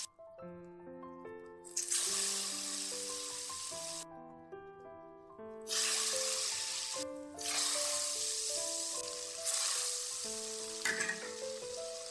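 Hot oil sizzling in several stretches that start and stop abruptly, over background music with a melody of clear notes.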